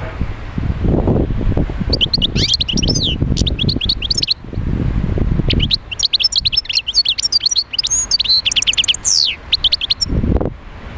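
European goldfinch singing: two runs of rapid, high twittering notes with quick up-and-down slurs, the first about two seconds in and the second longer one from about six seconds. A low rumble sits under the first half and returns briefly near the end.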